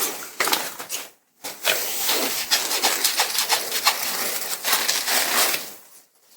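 Ripstop nylon paraglider fabric rustling and crinkling as it is handled for a patch repair. The crackly noise breaks off briefly about a second in and again near the end.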